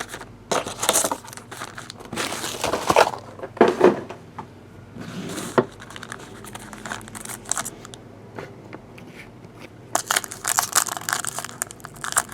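Trading-card pack wrappers crinkling and tearing as packs are opened by hand, with cards and packaging rustling in irregular bursts.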